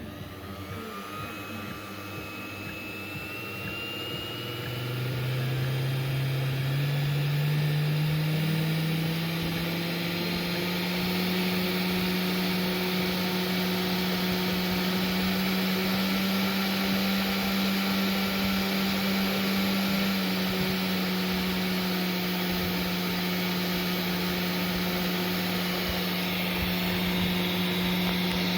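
Machifit 500 W DC CNC spindle motor spinning up with a rising whine over the first ten seconds or so, then running steadily at speed. It is powered at about 100 V DC through an AC voltage regulator and bridge rectifier.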